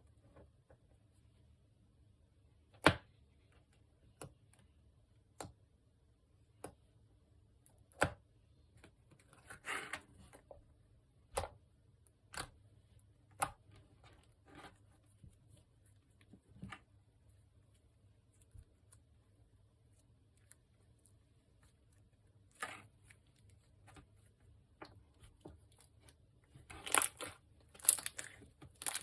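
Slime being mixed and folded by hand, giving scattered sharp clicks and pops every second or two, then a denser run of crackling pops near the end.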